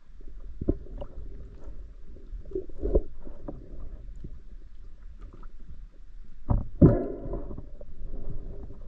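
Muffled water movement heard through an underwater camera housing: low sloshing with knocks about a second and three seconds in, and a louder burst of bubbling near the end.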